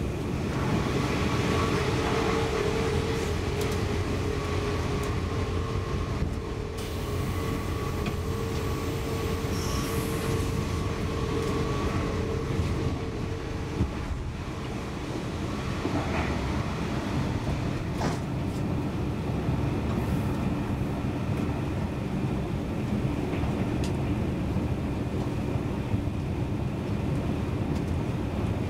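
SJ Intercity train running at speed, heard from inside the passenger car: a steady rumble of wheels and running gear, with a steady hum over it that stops about halfway through and a single sharp click about two-thirds in.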